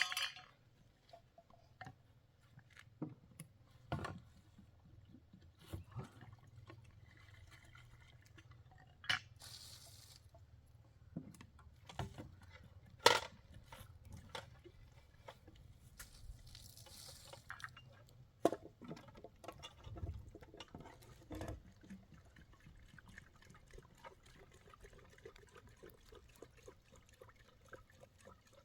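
Scattered light clicks and knocks of things being handled, with two short hissing washes of water-like sound about ten and seventeen seconds in, over a faint low hum.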